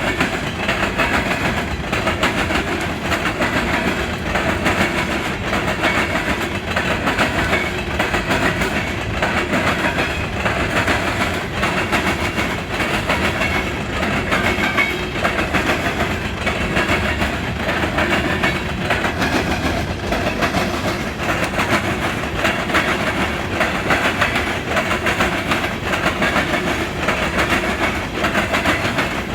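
Empty coal hopper cars of a CSX freight train rolling over a railroad diamond crossing. The wheels hammer on the crossing in a steady, rhythmic clatter of clicks and bangs.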